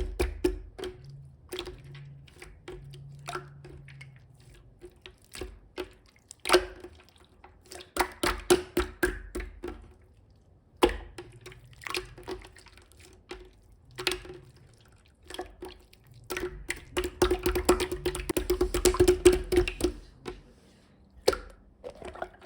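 Slime being squeezed and poked by hand, making irregular wet clicks and pops in bursts, densest between about 16 and 20 seconds in.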